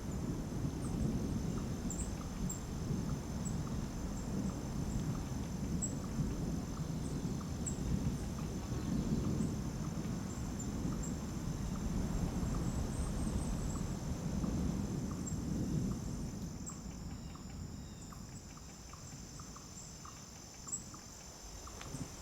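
Outdoor ambience: wind gusting with an uneven low rumble, over a steady high-pitched drone and scattered light ticks. The gusts ease off about sixteen seconds in.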